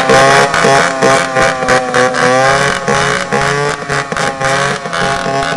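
Homemade noise machine driven by chainsaw engines, running very loud. Several engine notes sound at once, their pitch wavering as they rev, with many sharp cracks throughout.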